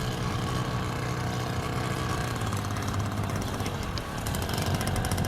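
Motorcycle engine running steadily, with a fast light ticking joining in about four seconds in.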